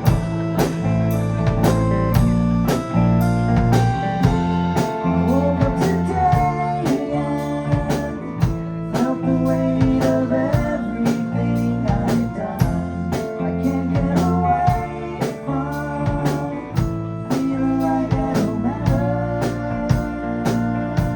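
Live rock band playing an instrumental passage: a drum kit keeping a steady beat under electric guitar, bass and keyboards, with bending guitar notes.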